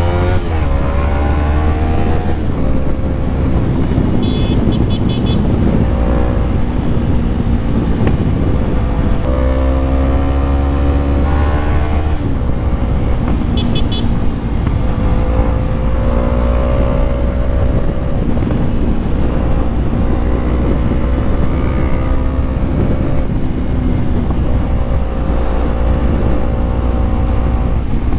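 Yamaha MT-03 motorcycle engine heard from the rider's seat, pulling up through the revs with a couple of gear changes, then cruising at steady revs over heavy wind rumble.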